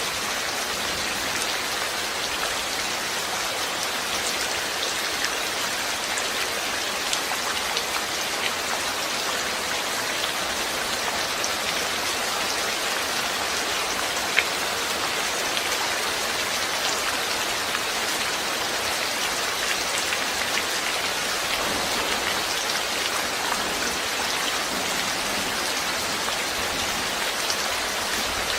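Steady rain falling and pattering on a surface, an even hiss with scattered small drop ticks; one drop ticks a little louder about halfway through.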